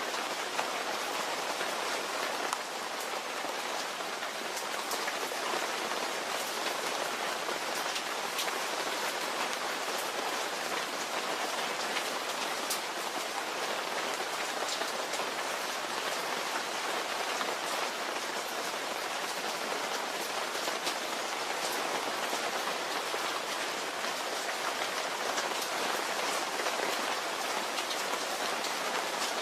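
Steady rain falling, an even hiss dotted with the small ticks of individual drops striking a surface.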